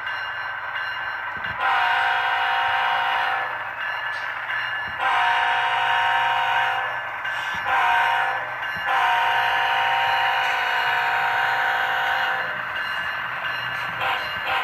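HO scale model locomotive's sound decoder blowing a multi-note horn in the grade-crossing pattern: two long blasts, a short one, then a long one, over a steady low engine hum.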